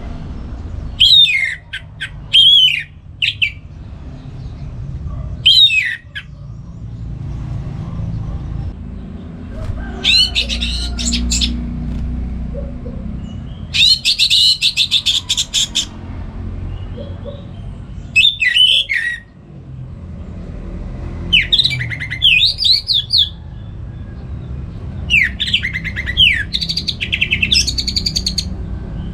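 Orange-headed thrush singing in short, varied phrases of whistles and chirps every few seconds, one of them a fast rattling run of rapid notes, over a steady low hum.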